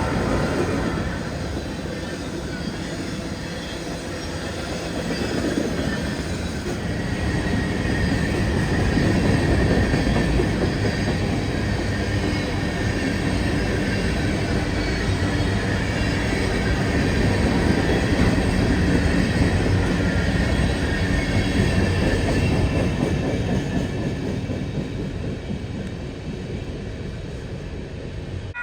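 A train rolling past: a steady, dense rumble of wheels and cars on the rails, with a faint high wheel squeal through the middle, easing off slightly near the end.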